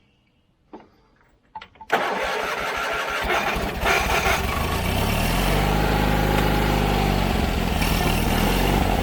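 John Deere 317 riding mower engine cranked by its starter about two seconds in, turning over roughly for a few seconds, then catching and running steadily.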